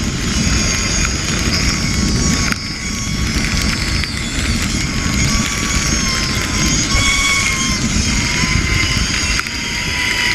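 Zipline trolley pulleys running fast along a steel cable with a steady, slightly wavering whine, over heavy wind rush on the helmet-mounted action camera's microphone.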